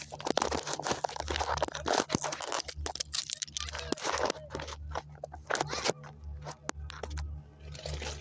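Amtrak passenger train passing directly over a camera on the track: a dense run of crunching, clattering clicks over a pulsing low rumble.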